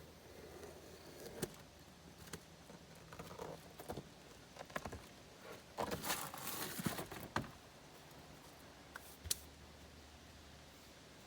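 Hands working a sheet of ice-and-water-shield membrane: scattered clicks and taps, with a burst of rustling and crinkling about six seconds in that lasts a second or two.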